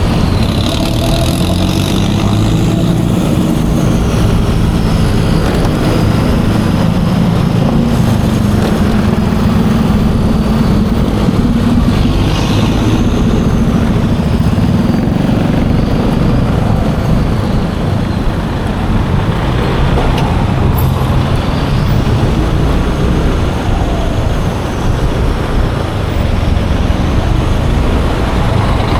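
Yamaha Aerox 155 scooter running steadily on the move in traffic, engine and road noise together, with a faint high whine that rises and falls in pitch a few times.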